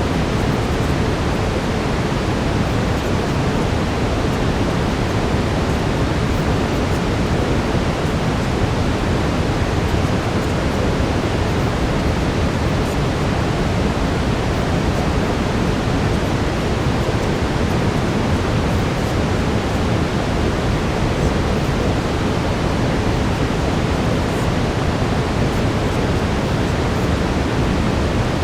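Steady brown noise: an even, unchanging rushing hiss, heaviest in the low end.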